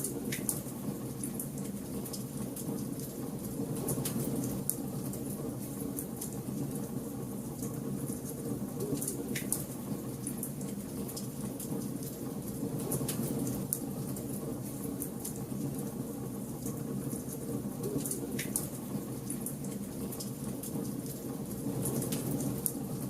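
Bonfire burning: a steady low rumble of flames with scattered sharp crackles and pops from the burning wood every few seconds.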